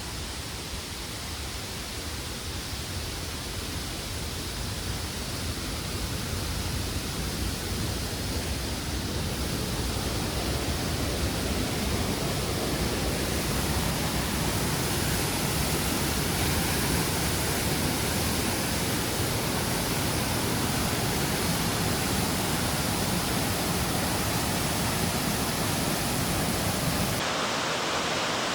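Steady rushing of the Oirase mountain stream flowing over rocks, growing louder over the first dozen seconds and changing abruptly in tone shortly before the end.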